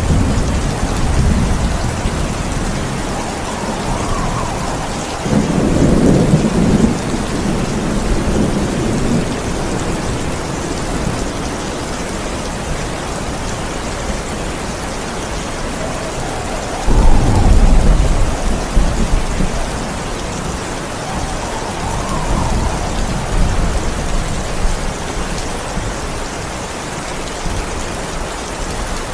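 Steady heavy rain with rolls of thunder. Low rumbles swell at the start, about five seconds in and about seventeen seconds in, with a weaker roll around twenty-two seconds.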